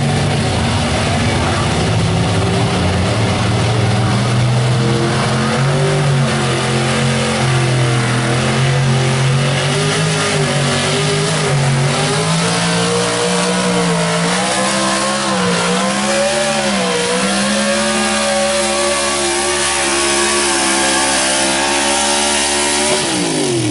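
Big-block V8 of a 4x4 pulling truck running at full throttle under heavy load while dragging the sled. The engine note climbs and wavers as the revs rise and dip, then falls steeply near the end as the throttle comes off.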